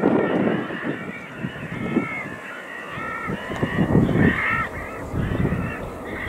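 Birds calling: a run of short harsh calls, one after another, over gusts of wind buffeting the microphone.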